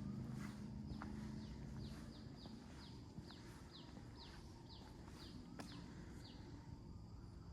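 A bird calling a quick series of short, high, down-slurred notes, about two a second, which stops about six seconds in.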